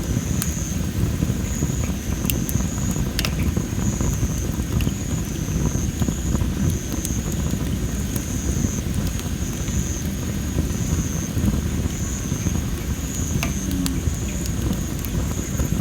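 Well-dried masaki (Japanese spindle tree) firewood burning in a fire pit, with a few sharp crackles and pops, the loudest about three seconds in, over a low steady rumble.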